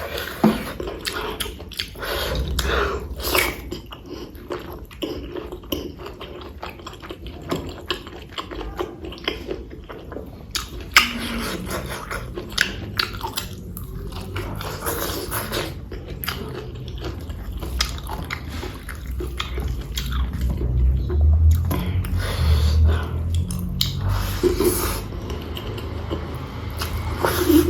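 Close-miked chewing and biting of pork curry and rice, a steady run of short mouth clicks and smacks, with heavier low thuds about twenty seconds in.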